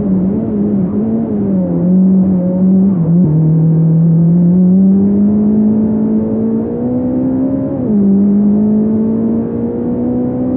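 Fiat Punto race car's engine, heard from inside the car, pulling hard up the course. Its pitch wavers in the first second or so as the throttle is worked, then drops sharply at upshifts about three seconds in and again near eight seconds, climbing steadily in between.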